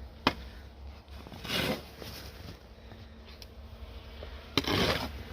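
Snow shovel working through snow: a sharp knock, then two short scrapes about three seconds apart, the second starting with a knock of the blade.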